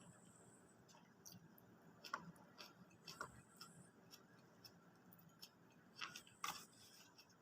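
Faint, scattered clicks and small crunches of someone eating, over near-silent room tone, with a few louder clicks about two seconds in and again about six seconds in.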